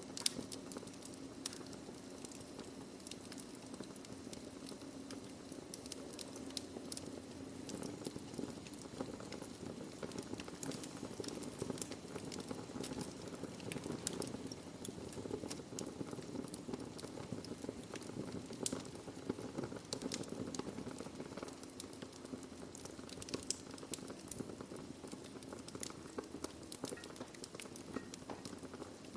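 Wood fire burning in a fireplace: a steady low rush of flame with many small crackles and pops scattered throughout.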